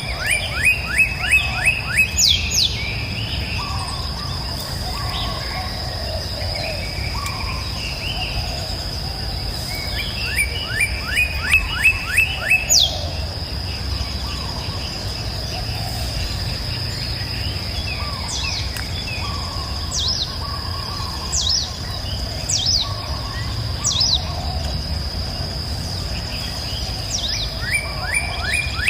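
Songbirds singing: three times, a rapid run of quick down-slurred notes, with single high down-slurred whistles between. A steady high-pitched tone and the low steady rush of a river run underneath.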